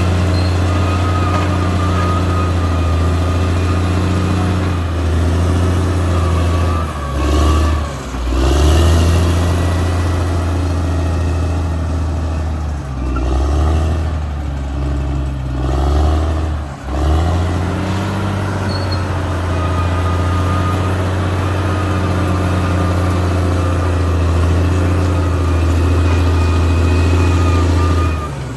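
Caterpillar D6R XL bulldozer's diesel engine running steadily at work. Its pitch dips and recovers twice, about a quarter of the way in and again around the middle.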